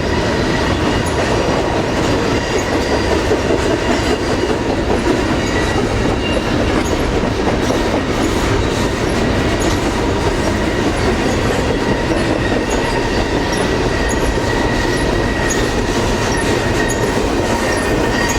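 Double-stack container train's cars rolling past: a steady, loud rumble and rattle of steel wheels on rail, with a faint steady wheel squeal running through it.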